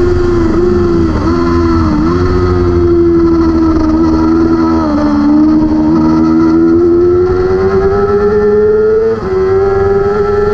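600cc superbike race motorcycle engine at high revs under racing load. The pitch dips briefly several times in the first two seconds, then climbs steadily, with a sharp drop and fresh climb about nine seconds in, as at a gear change.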